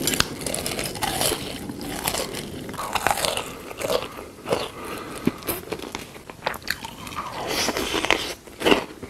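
Eating sounds: a person biting and chewing food, with irregular crunches.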